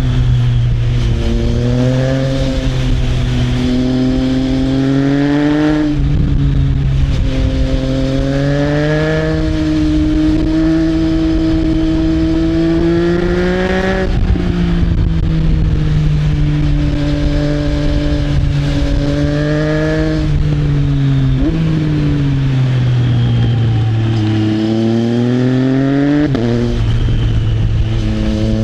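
Triumph Trident 660's inline three-cylinder engine through an Arrow exhaust, under way. The note climbs slowly in each gear and drops sharply at each upshift, about four times. Near the end it sags briefly as the throttle eases before climbing again. Wind rush runs underneath.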